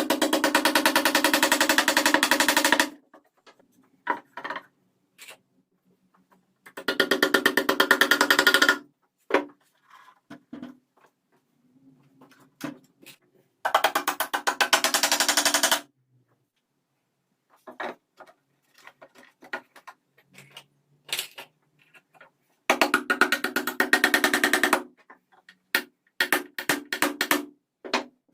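A restored 1960s hand-operated machine's mechanism run in bursts of rapid, even clicking a few seconds long, four times, with single clicks and short rattles in between.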